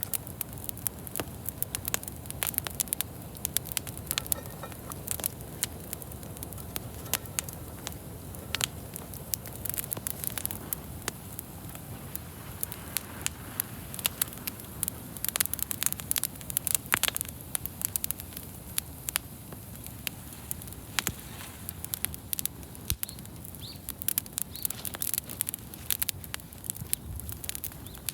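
Wood bonfire crackling, with frequent irregular sharp pops over a steady low rush of the burning fire.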